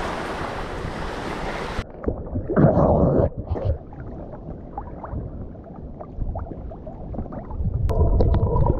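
Wind buffeting the microphone over surf, cutting off abruptly after about two seconds to muffled water sloshing and bubbling as the camera goes into the sea and underwater. Music comes in near the end.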